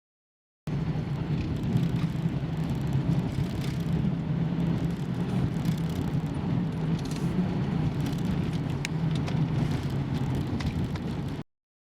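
A car running with a steady low hum, with scattered light clicks over it. The sound starts and cuts off abruptly.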